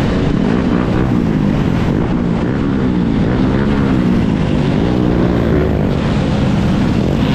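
Steady, loud wind and riding noise buffeting a GoPro microphone on a moving Sur-Ron electric dirt bike. Through the middle, tones rise and fall in pitch.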